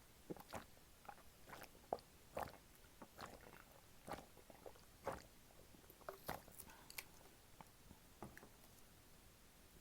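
Close-miked chewing of jjapaguri noodles: irregular soft mouth clicks and smacks, several a second at times, tailing off near the end.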